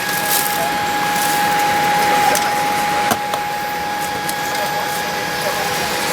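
Airliner cabin air-conditioning running during boarding: a steady rush of air with a steady high whine through it. A few light clicks sound over it.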